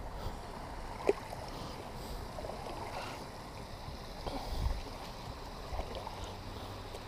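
Kayak out on the water: one sharp knock against the hull about a second in and a few softer thumps later, over a faint steady wash of water and wind.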